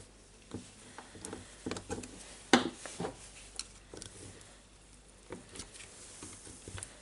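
Small tool parts being handled: scattered light clicks and knocks, the sharpest about two and a half seconds in.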